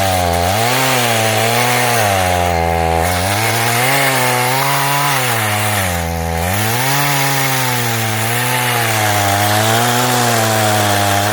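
Chainsaw running at high revs while cutting logs. Its engine pitch wavers constantly and sags twice as the chain is loaded in the cut, then picks back up.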